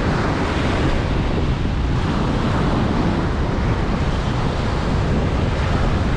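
Ocean surf washing onto a beach, a steady roar of breaking waves that swells near the start and eases over the next few seconds, with wind buffeting the microphone.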